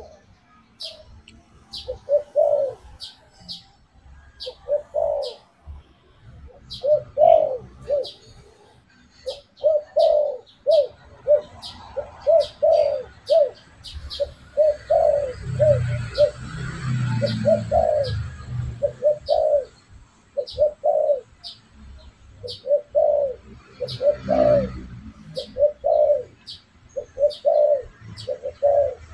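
Spotted doves cooing: short, low coo notes repeated in phrases with brief gaps, over and over, as a lure call. High, thin chirps from a small bird repeat about once a second throughout, and a low rumble comes in around the middle.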